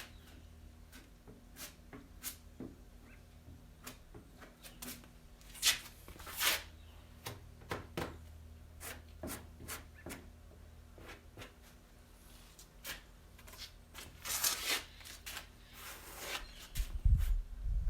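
Body filler being spread on a steel truck door skin with a spreader: short, irregular scraping and rubbing strokes, a few of them louder. A low rumble comes in near the end.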